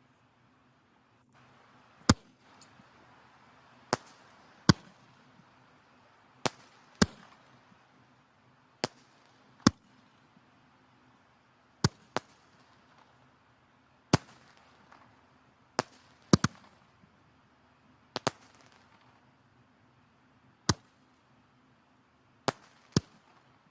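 Firewood burning in a fireplace, crackling with sharp, irregular pops every second or so over a soft hiss of the flames.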